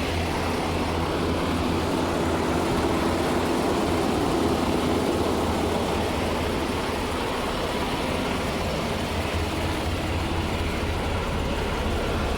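Diesel semi-truck engine idling, a steady low rumble.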